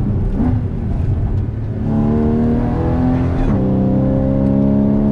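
Porsche Cayman GTS engine under way: running softer for the first couple of seconds, then accelerating with rising pitch, a quick drop in pitch at an upshift about three and a half seconds in, and pulling on again in the next gear.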